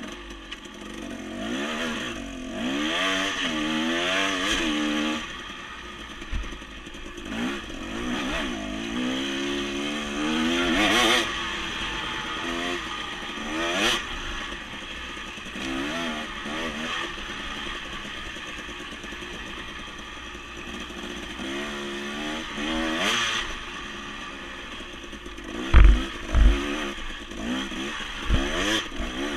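Dirt bike engine revving up and down over and over as it is ridden over rough trail, with clattering. A couple of heavy low thumps come near the end.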